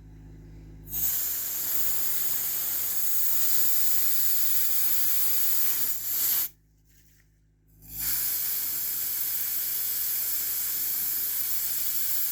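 Can of compressed air (air duster) spraying in two long hissing blasts, with a break of about a second in the middle. It is aimed at the PID controller's temperature probe to cool it and make the controller switch its output on.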